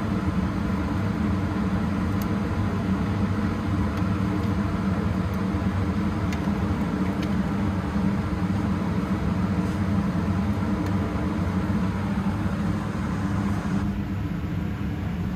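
Fuel-injector cleaning machine running with a steady hum while it cleans motorcycle injectors.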